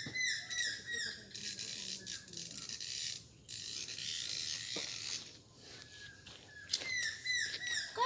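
A bird calling in quick runs of short falling notes, once at the start and again about seven seconds in, with a steady high hiss for a few seconds in between.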